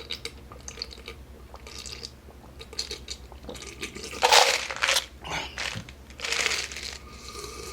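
A large fast-food soft drink being drunk through a straw to finish it off, with a few short slurps about four and six and a half seconds in.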